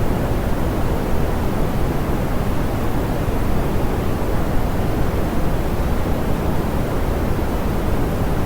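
Steady, soft pink noise: an even, unchanging hiss, strongest in the low end and rolling off toward the top.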